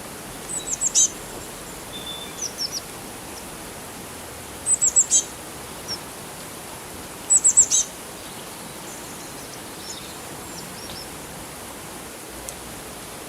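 A bird chirping in quick runs of three to five short, high, falling notes, a run every few seconds, over a steady hiss of running water.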